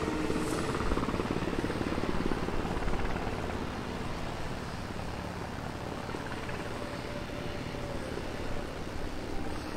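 UH-60 Black Hawk helicopters in flight: a steady, fast rotor chop with engine noise, easing off slightly in the middle and building again near the end.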